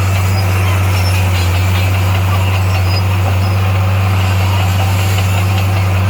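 Heavy machine's engine running steadily, a deep constant drone with no change in speed.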